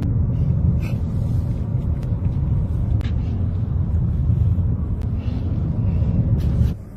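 Low, steady rumble of a vehicle driving, with a few faint ticks and crackles over it; it cuts off suddenly near the end.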